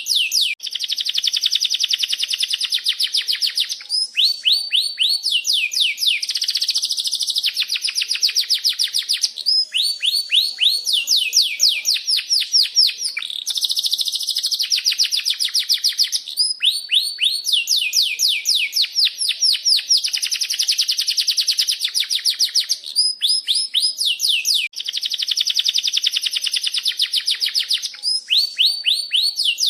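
Domestic canary singing a long, unbroken song: runs of fast repeated downward-sweeping 'cuit cuit' chirps alternating with long rolling trills.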